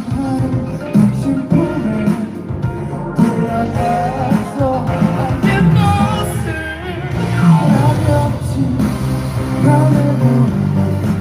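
Live band playing a rock-style song, with a melody line sliding above a steady accompaniment.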